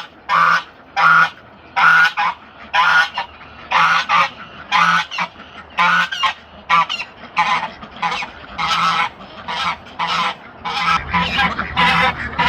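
Geese honking over and over, loud harsh calls coming about twice a second.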